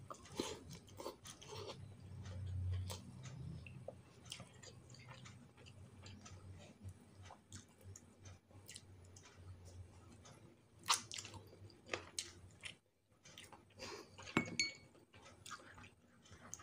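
Close-miked chewing and wet mouth sounds of a person eating rice with chicken rendang and vegetables by hand, with many small clicks. A low hum comes about two to three seconds in, and two sharper, louder clicks come about eleven and fourteen seconds in.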